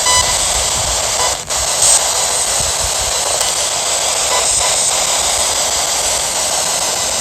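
SBox spirit box sweeping through the radio band, giving a steady hiss of static with one brief dropout about a second and a half in.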